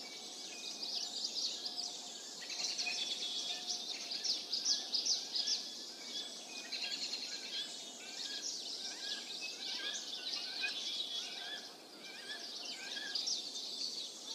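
Small birds chirping: a dense, continuous run of quick, high-pitched chirps, with a short lull near the end, over a faint steady background hiss.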